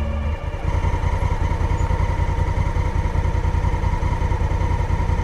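Honda Africa Twin's parallel-twin engine idling with a steady, rapid low pulse, after background music stops just after the start.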